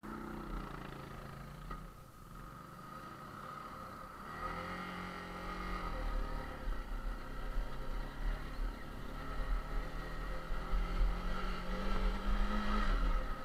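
Yamaha TT-R250's single-cylinder four-stroke engine running as the bike is ridden: the engine note drops about two seconds in, rises again from about four seconds and climbs once more near the end before falling away, over a steady low rumble.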